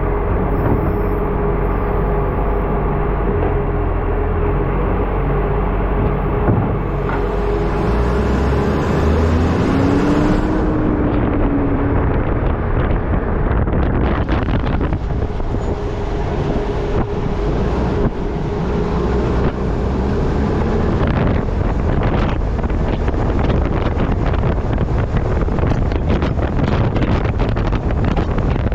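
Wind buffeting the microphone of a camera mounted on the front of a moving Acco truck with a Bucher refuse body, over a steady road and engine drone. About halfway through the wind turns rougher and gustier, with rapid crackling on the microphone.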